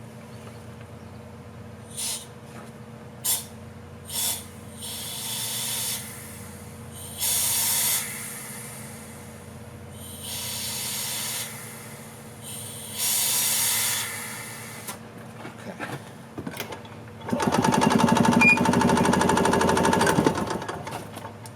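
A 1986 Yamaha G1's two-stroke engine is cranked by its starter-generator in a series of short bursts without catching, with one longer, louder crank of about three seconds near the end. It is being cranked to prime a fuel system that was getting no fuel.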